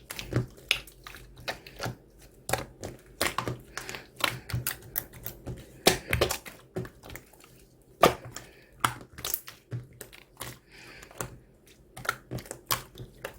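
Slime being squeezed and pressed by hand, making irregular sharp clicks and pops, several a second, as air pockets burst.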